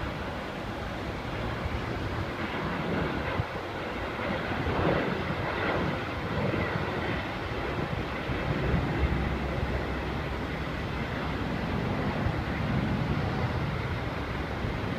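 Jet airliner's engines running as the plane passes, a steady rushing noise with a faint high whine in the middle.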